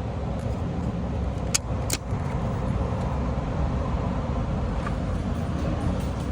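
A steady low rumble, with two sharp clicks close together about a second and a half in, from hand work on parts in the engine bay.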